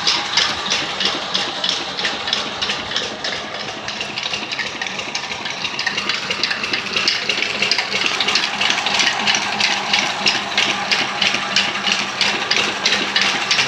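Engine of a farm irrigation water pump running steadily, with an even, fast beat and a constant low hum.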